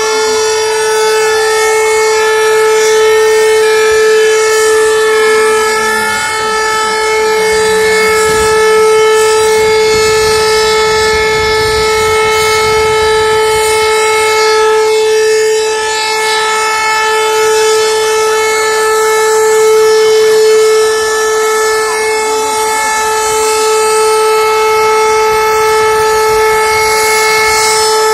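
Fire sirens sounding: one loud steady siren tone held throughout, with fainter wailing sirens gliding down in pitch over the first few seconds.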